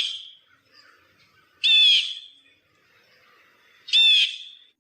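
Blue jay giving its harsh, slightly falling 'jay' call, repeated about every two seconds.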